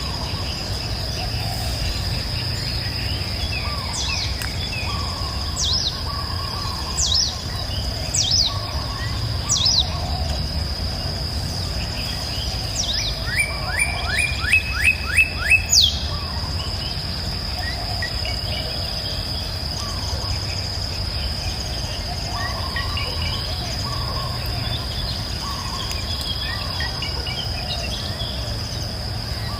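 Songbirds calling over a continuous high-pitched insect buzz and the low rush of a river. One bird repeats a sharp downward-sweeping call every second or two through the first half, and about halfway a quick run of short notes follows.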